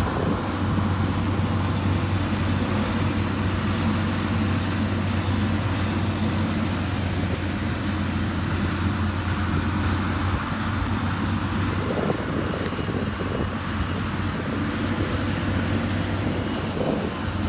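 Diesel engine of heavy road-construction machinery running steadily.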